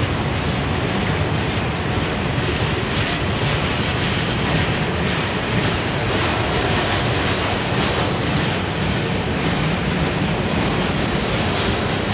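Freight train cars (boxcars, bulkhead flatcars and covered hoppers) rolling past on the rails, giving a steady wheel-on-rail noise with faint clicks from the wheels over the track.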